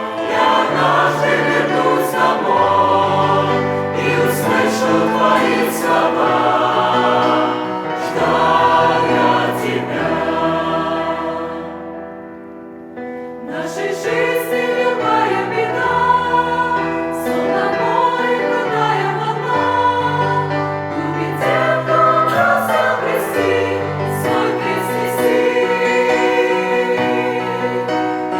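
Church choir singing a Russian hymn in several voice parts. A phrase dies away about twelve seconds in, and after a brief pause the choir comes back in.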